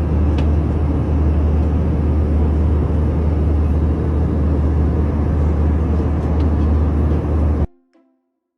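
Loud, steady rumble of an airplane with a deep low drone. It cuts off suddenly near the end, and a few quiet music notes follow.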